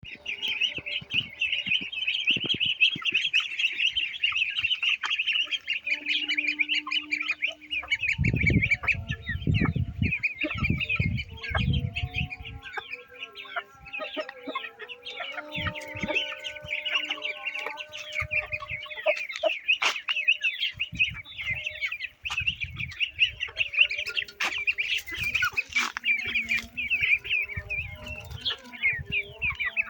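Domestic chickens clucking over a constant chorus of high-pitched chirping, with a run of low thuds from about eight to twelve seconds in.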